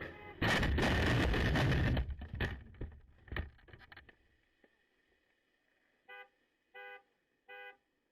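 A loud crash-like noise lasting about a second and a half, followed by scattered clattering that dies away over the next two seconds. Near the end, a car horn gives three short toots.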